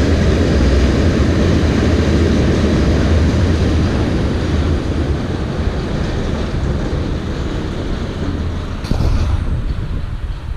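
Passing train, a steady heavy rumble that eases off over the last few seconds, with one sharp knock about nine seconds in.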